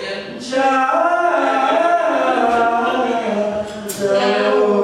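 Voices singing unaccompanied during a sound check, with long held notes and short breaks between phrases about half a second in and again near the end.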